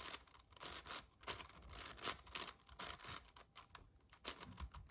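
Magnetic 7x7 puzzle cube being turned by hand: quick irregular runs of light clicks and clacks as its layers are spun through an algorithm, with brief pauses between runs.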